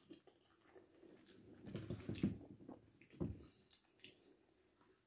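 A person chewing a mouthful of chilli chicken wrap: soft, irregular wet mouth sounds, a little louder about two seconds in and again just after three seconds.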